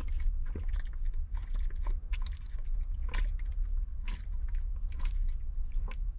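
Someone drinking in gulps, with a string of irregular wet swallowing and mouth clicks, over a steady low rumble.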